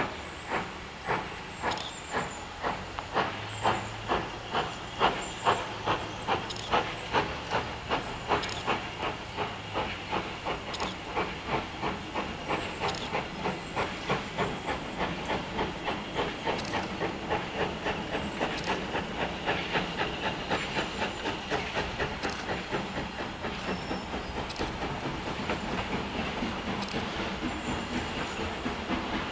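Steam locomotive pulling away, its exhaust beats quickening steadily from about one and a half a second to about three a second, over the hiss of steam.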